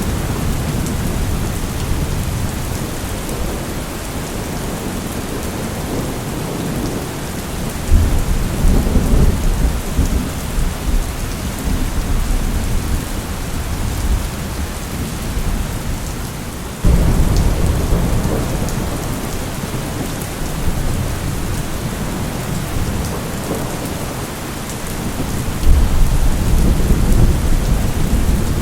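Steady heavy rain with rolling thunder: low rumbles swell up about a third of the way in, again sharply just past the middle, and near the end.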